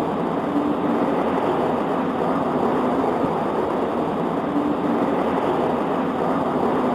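Steady rain on a window: an even, muffled rush of noise with no separate drops or thunderclaps standing out.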